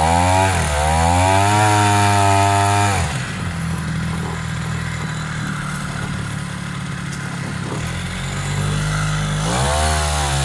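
Small two-stroke grass-trimmer engine driving a long-tail boat propeller, revving up in the first second, dropping back to a lower steady speed about three seconds in, and revving up again near the end.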